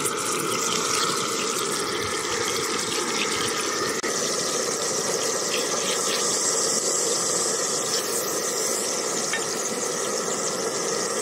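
Burger patties sizzling steadily on a hot cast-iron pan.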